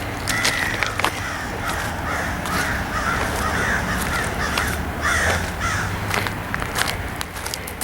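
Birds calling: a run of harsh repeated calls, a few per second, stopping about six seconds in, over a low steady hum with occasional sharp clicks.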